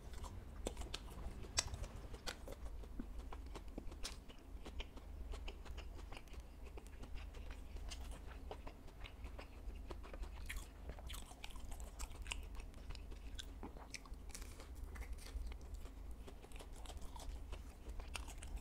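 Close-up chewing and biting of fried fish balls, with irregular crisp crunches and mouth clicks.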